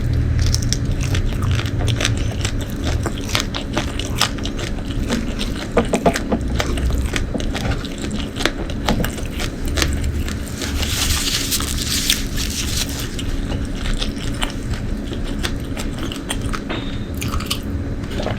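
Close-miked eating: wet chewing with irregular crunches and clicks of food being bitten and chewed.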